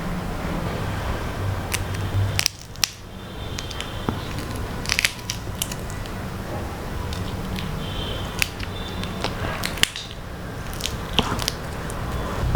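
Close-up chewing and biting of crispy fried food, with sharp crunches at irregular intervals over a steady low background hum.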